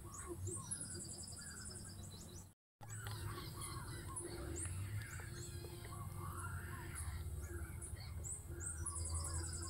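Several birds chirping and calling, with a rapid high trill about a second in and again near the end, over a steady low hum; the sound drops out completely for a moment about two and a half seconds in.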